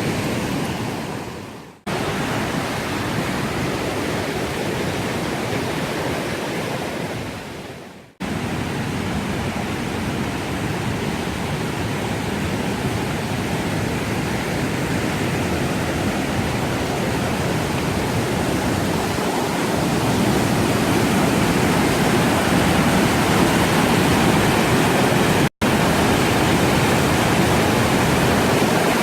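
Steady rush of fast-flowing water. It fades out and comes back in about two seconds in and again about eight seconds in, drops out for a moment near the end, and grows slightly louder over the last third.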